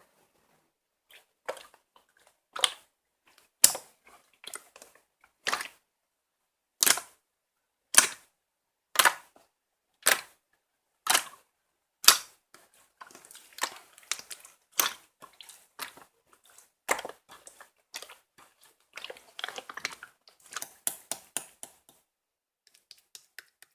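Clear slime being squeezed and pressed by hand, giving sharp popping clicks about once a second, then a quicker run of smaller crackles and pops in the second half.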